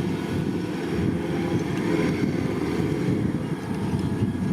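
Kubota DC-105X combine harvester running steadily as it harvests rice, a low, even engine and machinery rumble, with wind buffeting the microphone.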